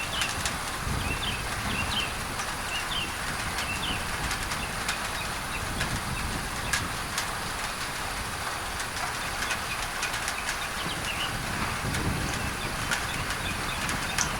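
Steady rain drumming on a tin roof, its drops ticking sharply over an even bed of pink noise. Birds chirp now and then, most in the first few seconds and again near the end.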